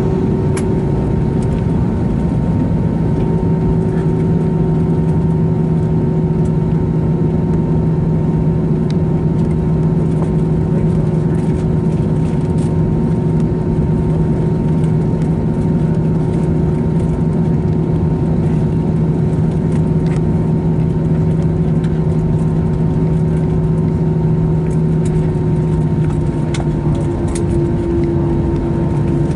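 Steady engine and air-system hum inside an Airbus A321's passenger cabin on the ground, with a constant low drone and a few steady tones and no build-up of power.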